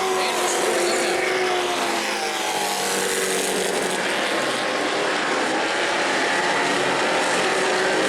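A field of race trucks' engines running at speed around a short oval track, several engines sounding together in a loud, steady din, their pitches sliding slowly down over the first few seconds.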